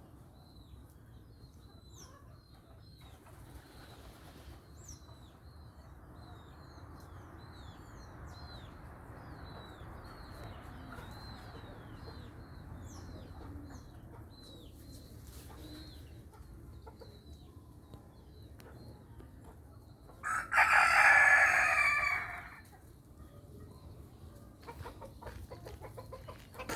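Rooster crowing once, loudly, about 20 seconds in. Small birds make short, high, falling chirps every second or so throughout.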